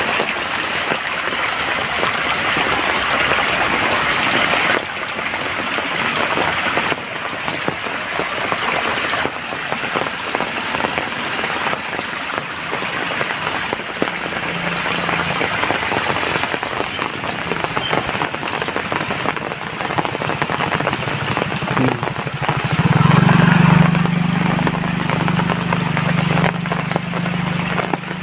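Steady rain falling, a continuous hiss of drops on surfaces. About three quarters of the way through, a low, steady engine hum comes in and becomes the loudest sound.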